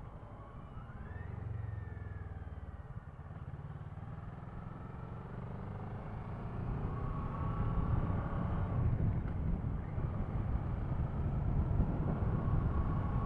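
2016 Kawasaki ER-6F's parallel-twin engine running under way, its pitch rising and falling as the revs change, over a low rumble of wind and road noise; it grows louder about halfway through.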